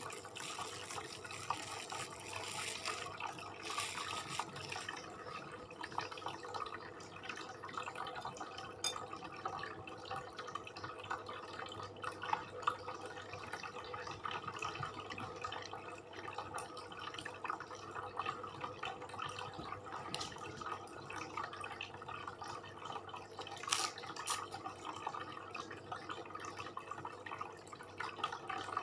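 Close-up wet chewing and mouth sounds of someone eating sate with rice: a steady stream of small smacks and clicks, with a few sharper clicks.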